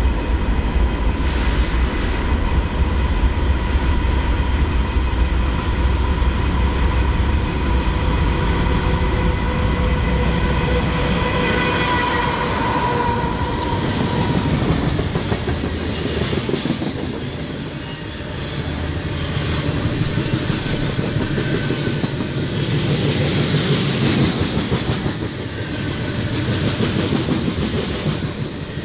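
BNSF diesel freight train passing: a deep engine rumble with a steady whine through the first half, giving way about halfway through to the rolling noise of the train's cars on the rails.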